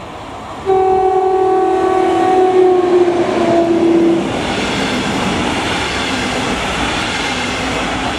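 Horn of a DB Regio electric locomotive, one long blast of about three and a half seconds, stepping slightly lower in pitch near its end as the locomotive passes. It is followed by the steady rushing noise of the double-deck coaches running past at speed.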